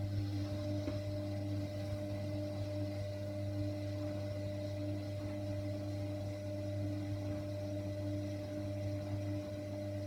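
Hoover washer dryer's motor running during a main wash, a steady hum with several held tones and no breaks.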